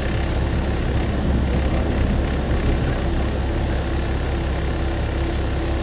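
Steady diesel engine hum and running noise of a single-car diesel railcar heard from inside the cabin, with a few faint ticks.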